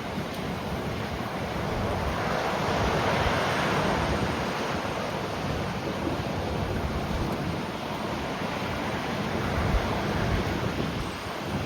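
Wind buffeting the microphone over a steady rush of noise that swells between about two and five seconds in.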